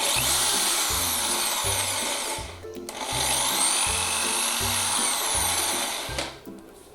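Black & Decker BEH200 500 W corded hammer drill running in two bursts, about two and a half and three seconds long, with a short stop between; its whine rises in pitch as the motor spins up and falls as it winds down.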